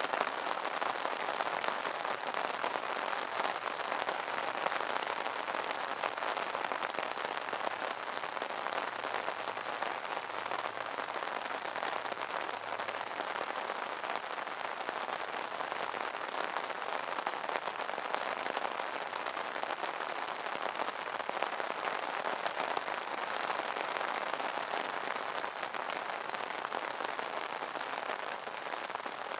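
Steady rain falling on an umbrella canopy: a dense, even stream of small drop impacts.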